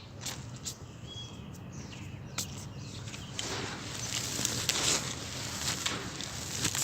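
Dry sand-cement crumbling and being crushed: scattered sharp cracks with a gritty crunching that swells in the middle and eases off again.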